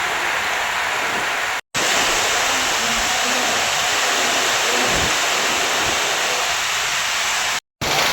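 Heavy rain pouring down in a steady, dense hiss, cut off twice by a split-second silence.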